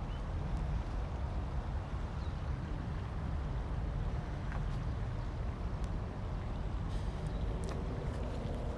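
The fast-flowing, flooded River Thames running: a steady low rumble with a fainter hiss above it, and a few faint clicks in the last few seconds.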